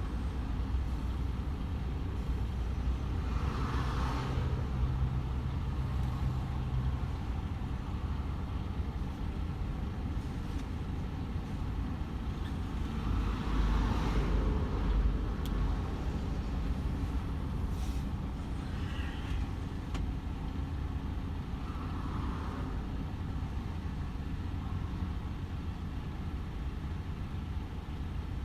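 DAF XF 510 truck's straight-six diesel engine and tyres running at motorway speed: a steady low rumble, with a few brief hissing swells.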